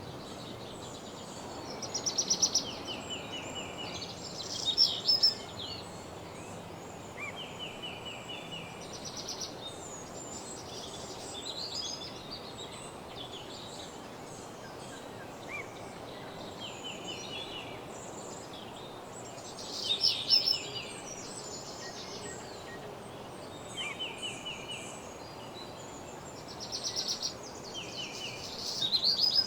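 Songbirds singing in woodland: short rapid trills and chirped phrases recurring every few seconds, over a steady background rush.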